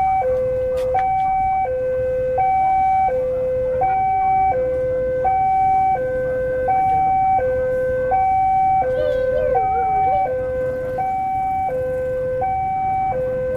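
Electronic railway level-crossing warning alarm sounding a steady two-tone signal, high and low tones alternating, each held for under a second.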